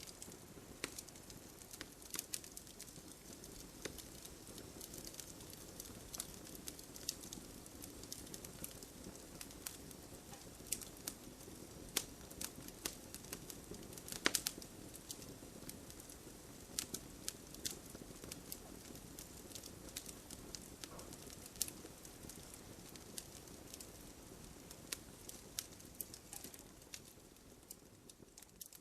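Wood campfire crackling and popping: a soft steady rush of flame under irregular sharp snaps, with a quick cluster of louder pops about halfway through.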